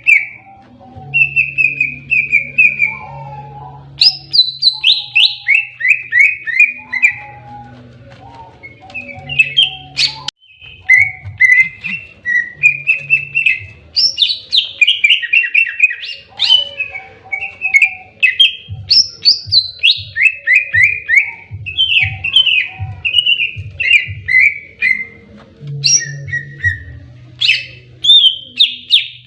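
Green leafbird (cucak ijo) singing hard in its aggressive fighting-mode song: loud, nearly unbroken runs of quick, falling chirped notes, with a faint steady low hum beneath and one sharp click about ten seconds in.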